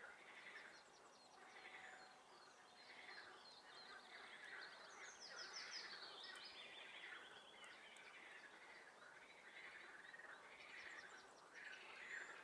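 Faint chorus of frogs calling over a swamp, in short pulsed calls repeated about once or twice a second, with songbirds trilling above them.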